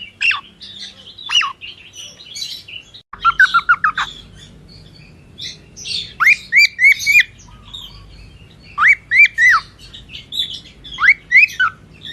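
Cockatiel chirping: loud short arching chirps in groups of three or four, with a quick run of lower notes about three seconds in, over fainter high chirps.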